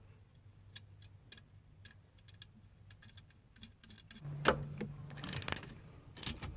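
Small metallic clicks as a nut is fitted onto an alternator mounting bolt, followed by a louder clatter and clank of metal tools and hardware over the last couple of seconds. The nut is being left loose so the alternator can still slide to tension the belt.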